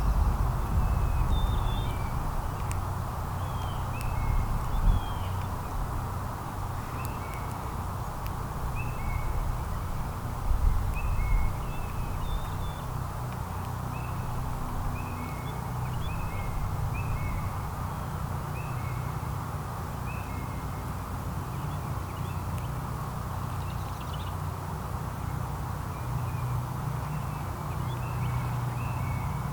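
Short two-note chirping calls repeated about once a second, over a steady low rumble.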